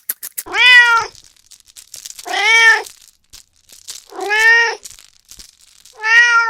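An animal calling four times at even intervals of about two seconds, each call short and rising then falling in pitch.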